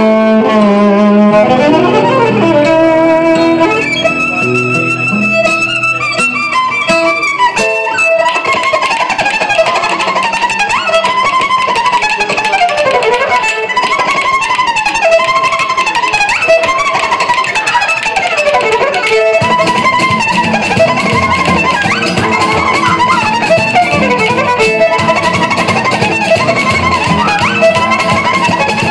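A fast fiddle melody played over a recorded backing track with plucked guitar. The tune is full of sliding, swooping notes in a Romanian gypsy style, meant to sound like birdsong.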